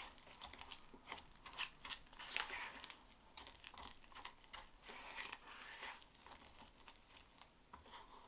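Silicone spatula stirring and scraping Toupret wood repair filler paste in a flexible plastic mixing bowl: faint, irregular scraping strokes with small clicks.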